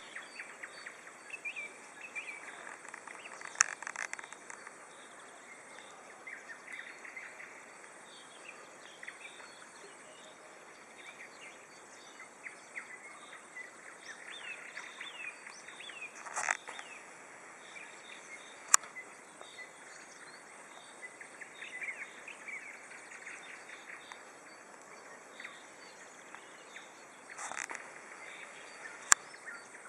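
Birds singing at dawn, nightingales among them: many short whistles and chirps, scattered and overlapping, over a faint steady high chirring of insects. A few sharp clicks stand out, the loudest near 19 and 29 seconds in.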